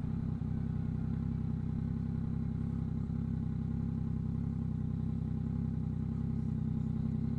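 2022 Yamaha MT-09's three-cylinder engine running through a Two Brothers aftermarket exhaust, holding a steady, even pitch.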